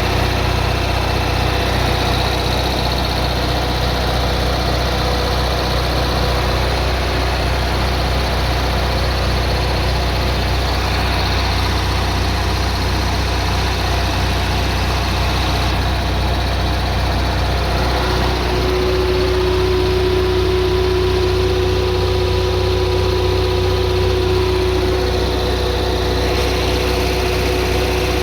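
Kohler Confident 5 4.7 kW generator running steadily in its enclosure, an even engine drone. A steady higher tone joins about two-thirds of the way through.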